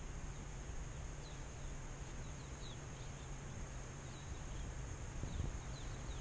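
Outdoor ambience with small birds giving many short, high, falling chirps, over a steady low rumble.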